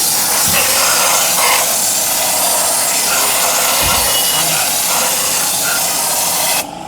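A loud, steady hiss that cuts off suddenly near the end.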